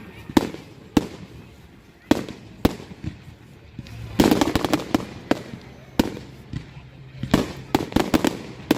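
Fireworks going off: a string of sharp bangs about every second, with a quick crackling volley of bangs about four seconds in.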